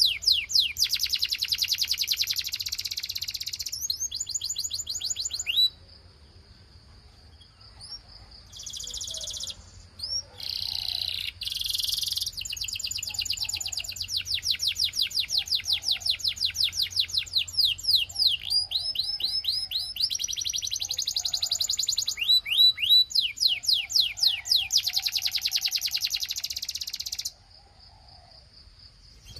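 Belgian canary singing in fast trills of rapid rising notes, one tour after another, broken by a couple of short pauses.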